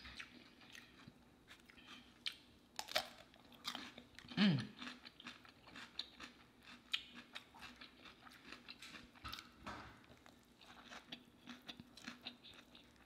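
Quiet, close-miked eating sounds: a taco being bitten and chewed, with many small crunches and wet mouth clicks. About four and a half seconds in there is one short, falling hummed "mm".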